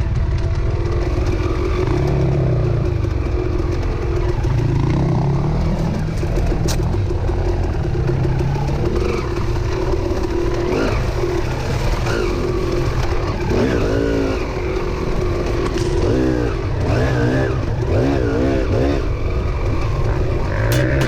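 Dirt bike engine revving up and down repeatedly while riding, its pitch rising and falling over and over, most busily in the second half.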